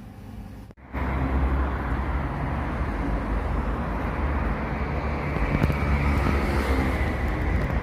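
Xiaomi Pro 2 electric scooter being ridden: a steady rumble of wind on the microphone and road noise that starts abruptly about a second in. No squeak or creak is picked out, consistent with the rider finding the noise gone after oiling.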